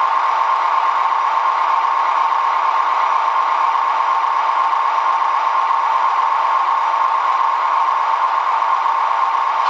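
Sound decoder of a Roco DB class 218 model diesel locomotive playing its diesel engine running sound, steady and unchanging, heard through the model's small speaker with no deep bass.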